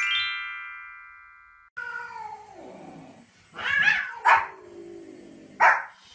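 A bright chiming sting that steps down in pitch and fades. Then a cat gives a long falling meow, and a small white spitz-type dog barks sharply a few times, with the last bark near the end.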